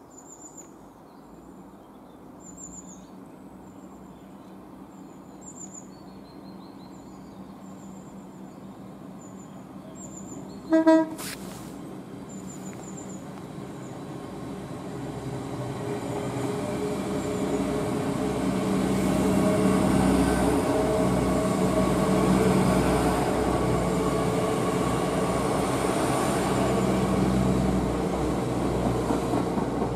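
A GWR Hitachi Class 800-series bi-mode train approaches and passes close below, running on its underfloor diesel engines. The steady engine hum and rail noise build up through the second half. One short, loud horn toot comes about a third of the way in, and small birds chirp in the first part.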